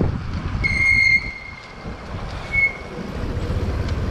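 A high-pitched squeal held for about half a second, with a shorter second squeal about two seconds later, over a steady low rumble of wind and road noise.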